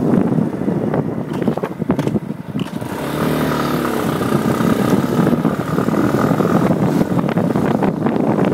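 Yamaha Lander motorcycle running. A thin, steady high whine sits over the engine sound for a few seconds in the middle.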